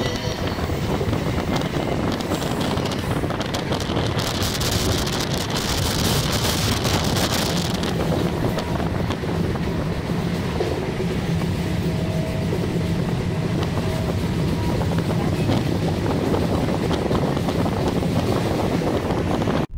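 Electric MEMU train running along the line, heard from on board as a steady loud rush of noise with wind on the microphone. A stretch of stronger high hiss comes from about four to eight seconds in.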